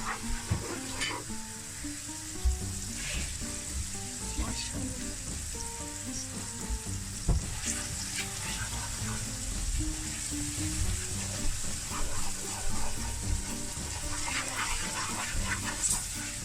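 Tomato-and-spice masala frying in a pot: a steady sizzle, with occasional clicks and scrapes from stirring.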